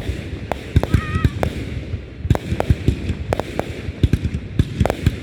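Fireworks going off: a dense, irregular run of sharp bangs and cracks, several a second.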